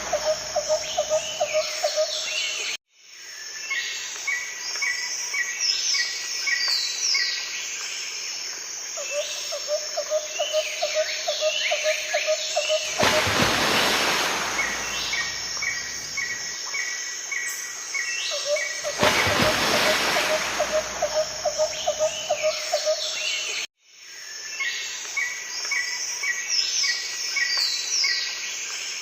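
Birds calling over a steady outdoor background: a fast low trill repeated several times, runs of short evenly spaced chirps, and quick falling notes. The sound cuts out abruptly twice.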